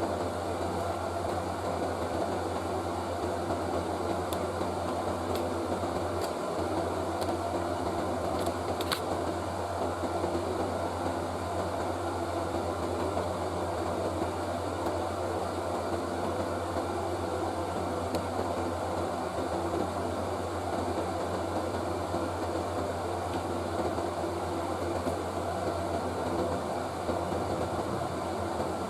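Steady whirring of a fan with a low hum underneath, unchanging throughout, with a few faint ticks about four to nine seconds in.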